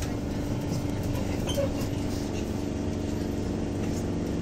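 Cabin sound of a BKM-213 articulated trolleybus under way: a steady low rumble with several held hum tones from its running gear and electrical equipment.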